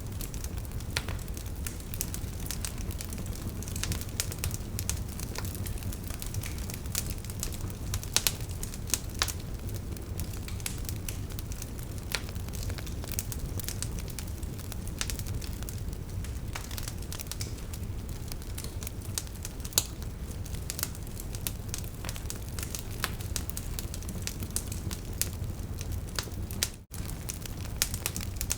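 Burning wood logs crackling, with many irregular sharp pops over a steady low rumble of flame. The sound cuts out for a split second near the end.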